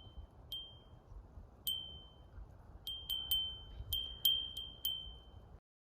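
A wind chime ringing at one high pitch, struck about nine times at uneven intervals, each ring fading within about a second, over a low steady background rumble. It cuts off shortly before the end.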